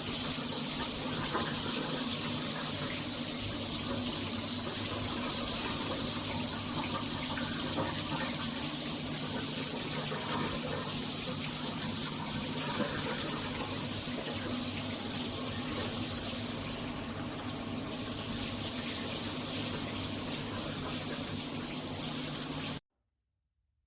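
Hibbent all-metal shower head spraying water in a steady rush, which cuts off suddenly near the end.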